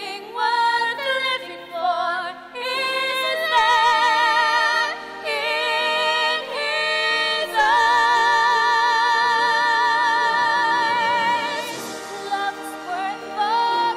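Female voices singing a slow ballad with wide vibrato over backing accompaniment, holding one long note through the middle before moving on to shorter phrases.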